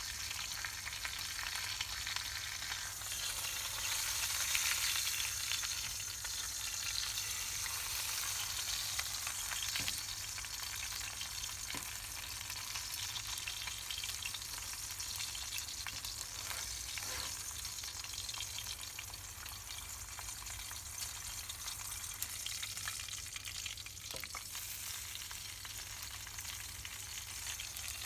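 Pork roasting over a wood campfire: a steady sizzling hiss, with a few sharp crackling pops here and there.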